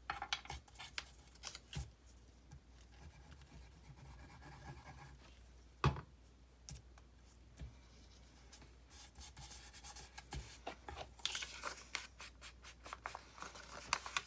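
Paper handling: rustling and rubbing with scattered small taps and clicks, a denser patch of rustling in the last few seconds, and one sharper knock about six seconds in.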